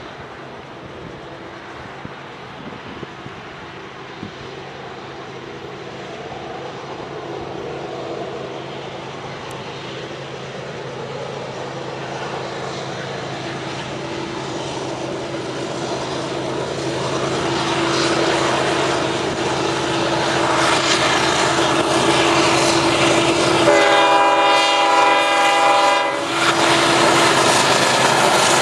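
Union Pacific diesel freight locomotives approaching, their engines and the rumble of the train growing steadily louder over a steady hum. About 24 seconds in, the locomotive horn sounds one blast of about two seconds.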